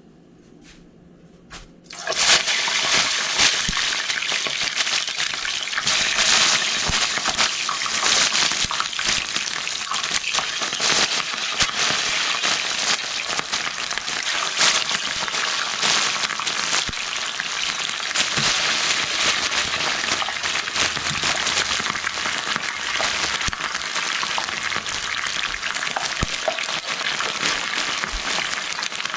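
Chicken wings deep-frying in hot oil in a pan: a sudden loud sizzle about two seconds in as the wings go into the oil, then steady crackling, bubbling sizzle.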